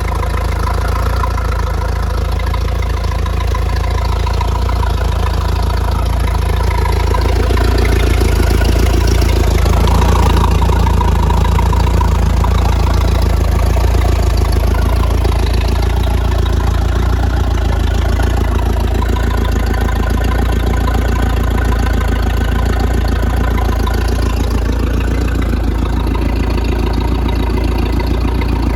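An engine running steadily under a deep, constant rumble, swelling slightly a few seconds in.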